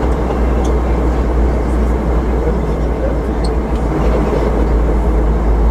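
Steady in-flight cabin noise of a Boeing 717-200: an even rush of airflow and its two rear-mounted Rolls-Royce BR715 turbofans, with a deep, constant rumble underneath.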